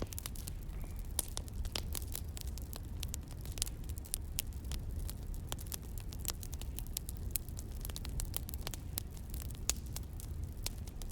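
Wood fire crackling: irregular sharp pops and snaps of varying loudness over a low steady rumble.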